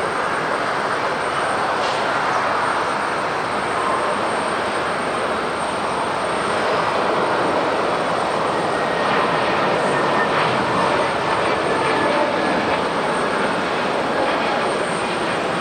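Jet engines of an Airbus A321neo airliner on departure, running at takeoff thrust: a steady, loud rush of jet noise that swells slightly partway through.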